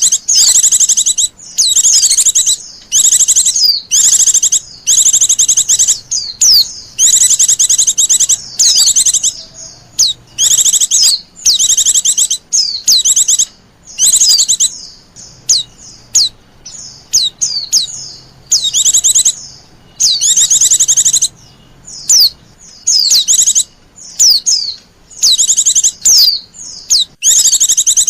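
White-eye (pleci) song played as a lure call: bursts of rapid, high chirping trills, each under a second or so, repeated with short gaps.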